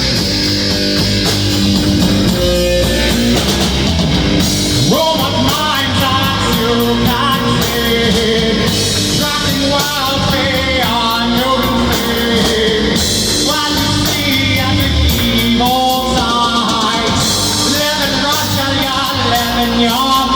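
A rock band playing loudly, with electric guitar and a sung melody line that comes in about five seconds in.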